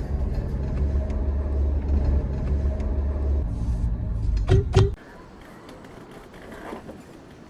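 Steady low rumble of a road vehicle on the move, with a short, louder pitched sound just before it cuts off sharply about five seconds in; a much quieter background follows.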